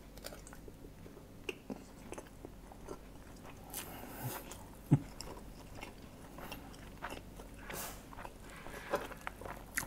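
A person chewing a mouthful of nasi goreng (fried rice): faint mouth sounds and small clicks, with one sharper click about five seconds in.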